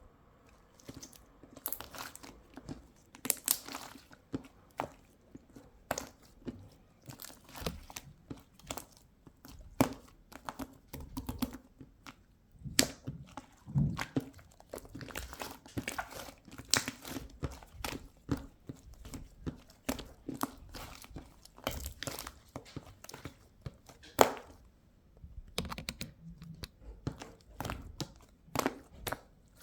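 Slime full of trapped air bubbles being squeezed, stretched and folded by hand, giving irregular sharp pops and crackles, often several a second, with one louder snap near the end.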